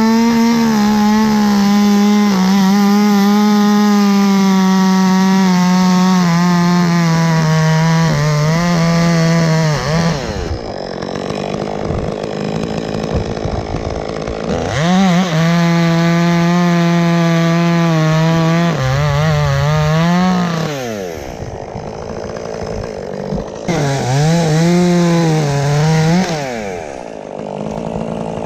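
Chainsaw cutting through a sugar maple's trunk to take out the top: the engine runs at full throttle for about ten seconds, drops back, runs again for about six seconds, then gives a short final burst of cutting.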